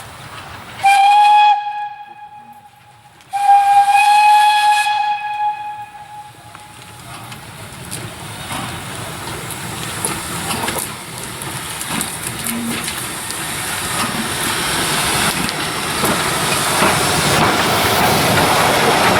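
Steam whistle of a PKP class Ol49 steam locomotive: a short blast, then a longer one of about three seconds. After it the train's running noise grows steadily louder as it approaches.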